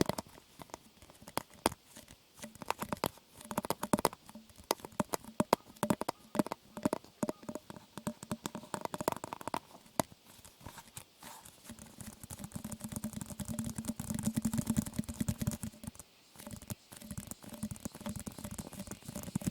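Close-miked ASMR trigger sounds: a dense, irregular run of small clicks and crackles, growing busier and fuller about twelve seconds in.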